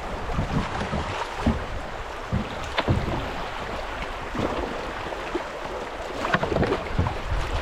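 A kayak being paddled down a shallow creek: running water with paddle splashes and scattered knocks.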